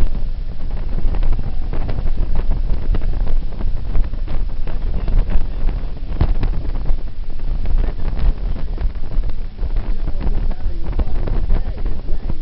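Heavy wind buffeting the microphone in irregular gusts, over a constant deep rumble.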